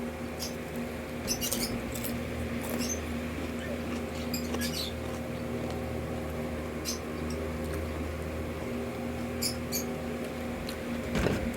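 Close-miked chewing of crispy fried chicken intestines, with sharp wet mouth clicks and crunches scattered through, over a steady low hum.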